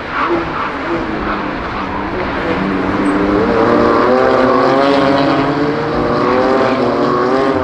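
BMW M2 CS race cars' straight-six engines running hard at racing speed, the engine note wavering in pitch and growing louder from a couple of seconds in.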